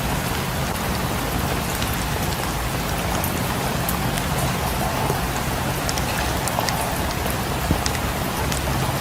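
Steady rain falling, an even hiss with scattered small sharp ticks and drips over it.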